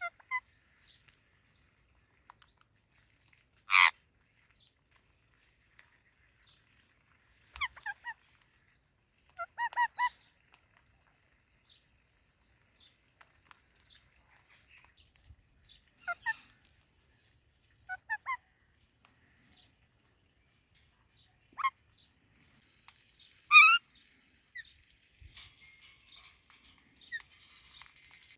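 Indian ringneck and Alexandrine parrots giving short, harsh squawks at irregular intervals, about ten calls in all. A loud one comes about four seconds in and the loudest near the end.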